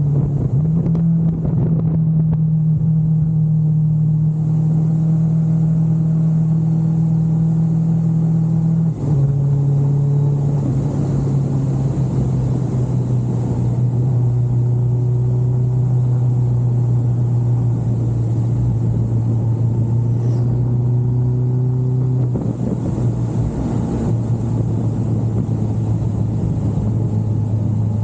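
Kawasaki GTR 1400's inline-four engine running steadily under way, its drone dropping in pitch in two steps, about a third of the way in and again past three quarters.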